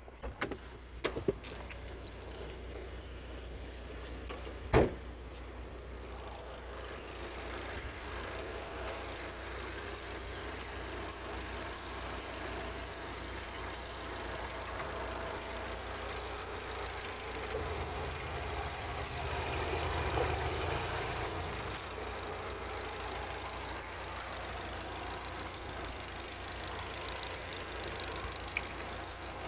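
Opel A16XER 1.6-litre four-cylinder petrol engine running steadily at idle for a test of a used engine. A few clicks and one sharp knock come in the first five seconds. The engine sound swells briefly about two-thirds of the way through.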